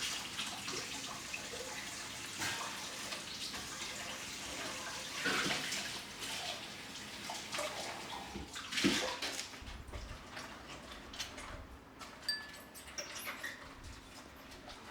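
Water running from a kitchen tap into the sink, with a couple of louder splashes. The flow stops about two-thirds of the way through, leaving a few light clicks.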